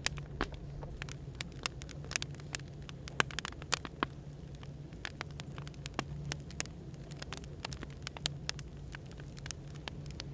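Firewood crackling as it burns: irregular sharp pops and ticks, several a second, over a steady low hum of background white noise.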